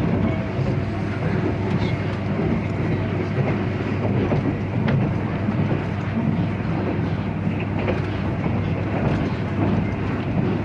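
485-series electric train running on the Tohoku Main Line, heard from inside the passenger car: a steady rumble of wheels on rail with a few faint clicks from the track.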